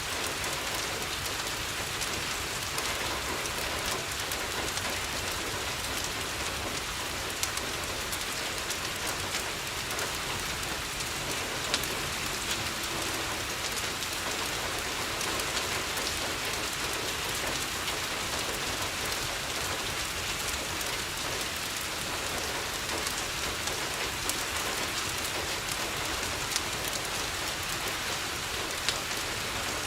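Steady rain falling on a window, an even hiss with occasional sharp clicks and pops scattered through it.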